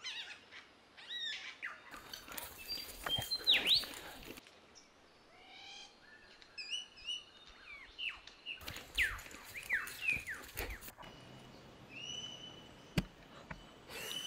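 Forest birds calling: repeated chirps and quick down-sweeping whistles, with a held whistle near the end. Two stretches of rushing noise of about two seconds each and a single sharp click near the end.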